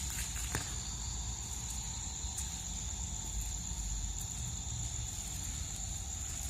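Crickets trilling steadily in a high, unbroken tone over a low rumble, with a couple of faint clicks.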